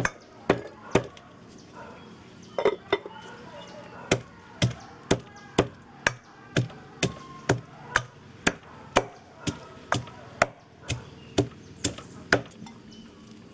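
Chopping with a blade on a hard surface: a few uneven strokes at first, then a steady run of about two strokes a second.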